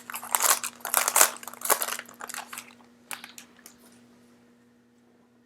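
Foil wrapper of a basketball trading-card pack crinkling as it is torn open and handled for the first two and a half seconds, then a few light ticks.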